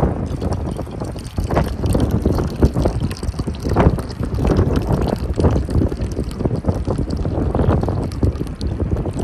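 Strong wind buffeting the microphone: a loud rumbling noise that surges and eases in gusts.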